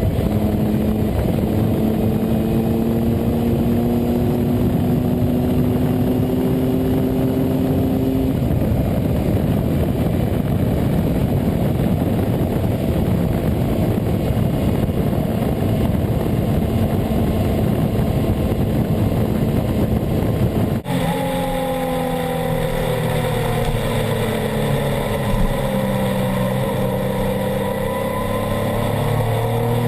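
Triumph Explorer XCA's three-cylinder engine through an Arrow exhaust, pulling steadily up through the revs under acceleration. After about 8 s the engine note is buried in loud wind rush. About two-thirds through, the sound cuts abruptly to the engine note falling and then climbing again as the bike slows and accelerates.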